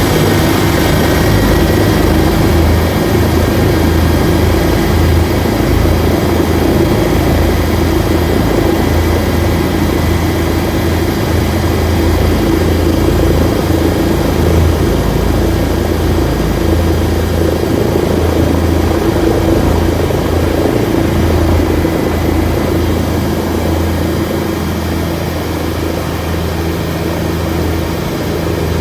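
Helicopter in flight, its engine and rotor running steadily as a constant loud drone with a thin high whine above it.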